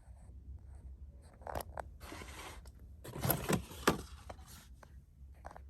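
Handling noise from a GoPro camera being picked up and turned over in the hands: scattered clicks and scrapes, a rustle about two seconds in, and a louder cluster of clicks and knocks between three and four seconds in.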